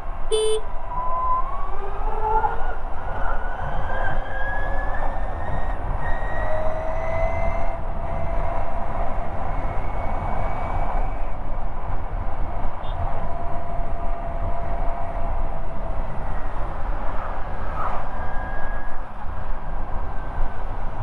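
Ather 450X electric scooter's motor whining as it rides, the whine rising in pitch over the first several seconds as it picks up speed and then holding steadier, over a steady wind and road rumble. A short high beep sounds right at the start.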